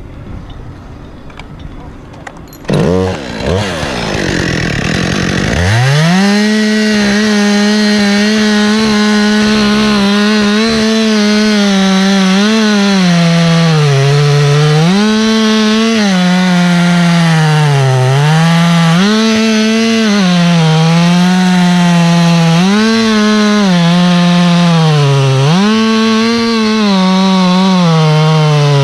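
Chainsaw comes up to full throttle about three seconds in, then runs flat out cutting into oak. Its pitch sags every couple of seconds as the chain bogs under load in the cut, then picks back up.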